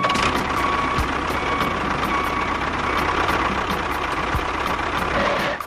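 A vehicle engine running steadily at idle, with a faint steady whine and a light regular ticking about three times a second; it cuts off abruptly at the end.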